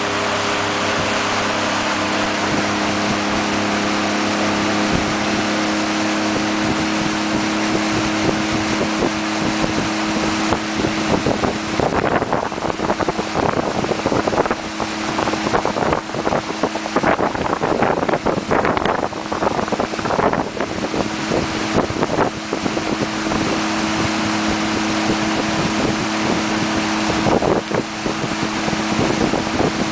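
Small motorboat's engine running steadily under way, a constant hum. Wind buffets the microphone in gusts through the middle stretch.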